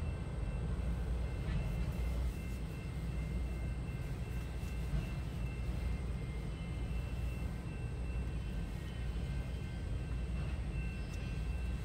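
Freight train of autorack cars rolling across a level crossing, a steady low rumble heard from inside a stopped car, with a few faint steady high tones over it.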